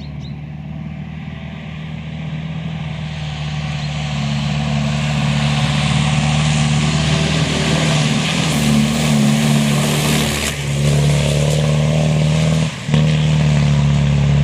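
Car engine running steadily while driving, with road and tyre noise growing louder over the first several seconds, and a brief drop in sound about 13 seconds in.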